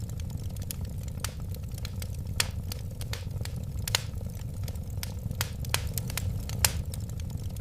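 Wood fire burning, with frequent irregular sharp crackles and pops over a steady low rumble of the flames. Two louder pops come about 4 and 6½ seconds in.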